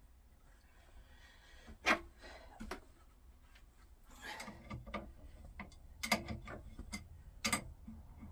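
Hand work on a car's suspension strut: a sharp metallic clack about two seconds in, then scattered clicks, knocks and rubbing as metal parts and tools are handled while the top nut is refitted.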